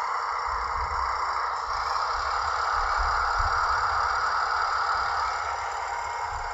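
HO-scale model train running along the track, with a steady rolling rattle of wheels on rails over a low rumble. It grows a little louder, then eases off about five seconds in.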